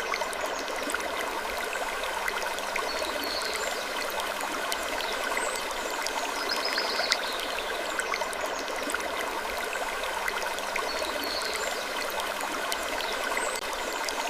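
Steady sleep-ambience hiss with scattered small ticks and creaks, in a loop that repeats about every four seconds.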